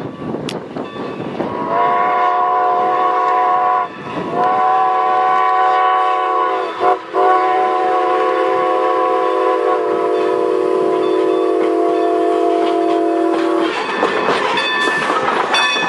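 Strasburg Rail Road engine 90's steam whistle blowing several tones at once in a long–long–short–long pattern, the grade-crossing signal, with a long final blast. Near the end the whistle stops and the passing train clanks and rattles over the rails.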